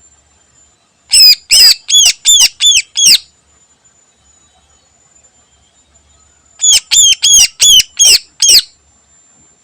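Cucak ijo (greater green leafbird) calling in two bursts of six loud, sharp, down-slurred notes, about three a second, with a pause of a few seconds between the bursts.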